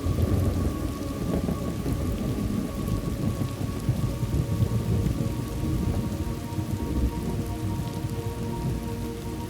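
Thunderstorm ambience: steady rain with a low, rolling rumble of thunder that comes in right at the start and rumbles on unevenly, swelling again about four to five seconds in.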